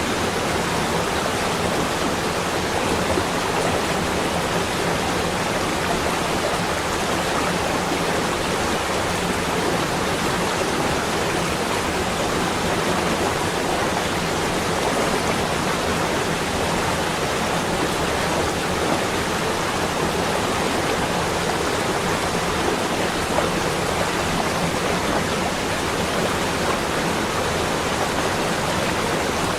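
A steady, even rushing noise with no separate drops, gusts or other events: the unbroken ambient bed of a winter snowfall relaxation recording.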